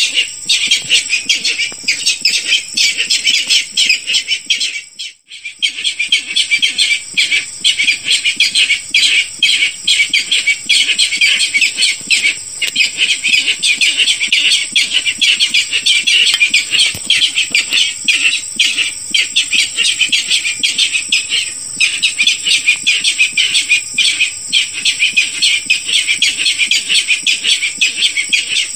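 Barred rail calling: a dense, unbroken run of rapid, harsh repeated calls, as used as a hunting lure call. It breaks off for a moment about five seconds in, with a steady high thin whine underneath.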